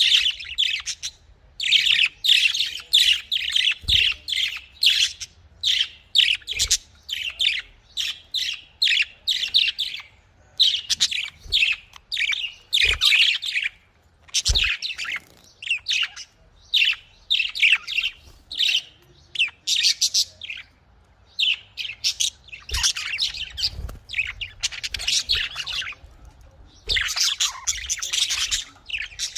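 Budgerigars chirping and chattering in quick, busy bursts of high twittering, with a few soft low thumps.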